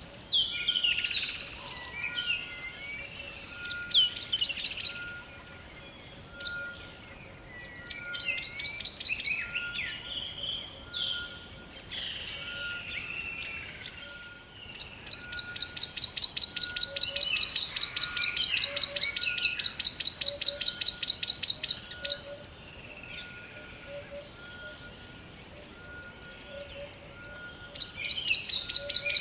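Forest birdsong: several birds chirping and whistling, with one bird's fast, dry rattling trill that comes in short bouts and runs for about six seconds past the middle. A short note repeats at an even pace underneath.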